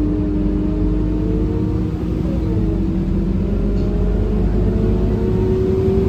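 Scania K230UB single-deck bus heard from inside the cabin, running under power with a low rumble and a steady whine that rises slowly in pitch as it gathers speed.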